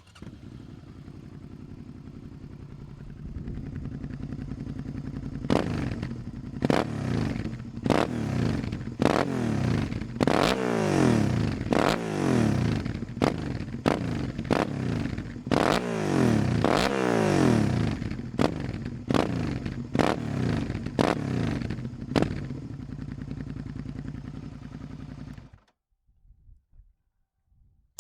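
Suzuki V-Strom 650's 645 cc V-twin idling through its exhaust, then revved in a long series of quick throttle blips, each rising and falling in pitch, before settling back to idle. The sound cuts off shortly before the end.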